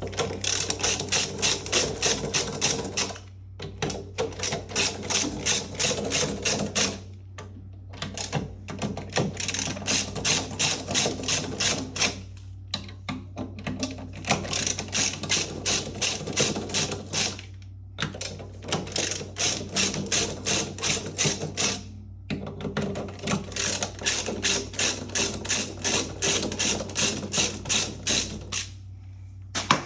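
A hand ratchet wrench clicking in six runs of quick, even clicks, about five a second, with short pauses between runs as bolts are turned, over a steady low hum.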